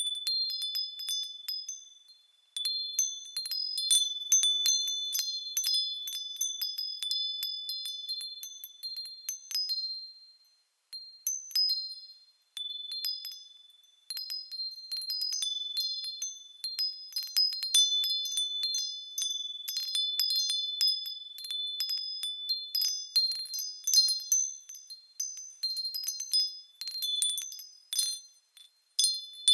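Small high-pitched bells ringing as they swing, many overlapping strikes in an irregular chiming, with a few short lulls.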